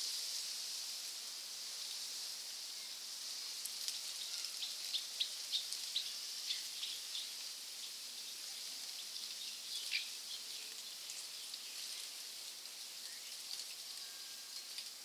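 Rainforest ambience: a steady high hiss that slowly fades, with a quick run of short bird chirps a few seconds in and one more chirp about ten seconds in.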